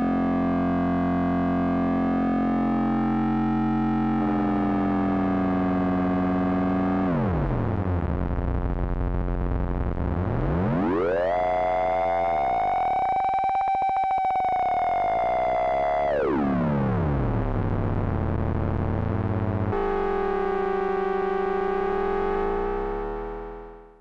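Korg ARP Odyssey analogue synthesizer holding one sustained note, taken straight from its headphone output, while its tone is reshaped. The overtones glide down and back up in a slow arc through the middle, the character changes suddenly about four seconds in and again near twenty seconds, and the note fades out at the end.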